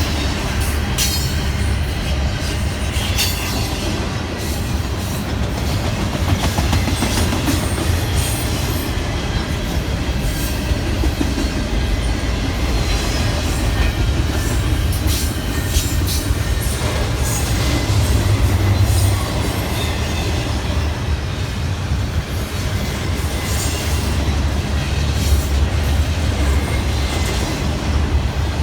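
A train rolling past close by: a continuous heavy rumble of cars and wheels, with frequent sharp clicks and clatter of the wheels on the rails.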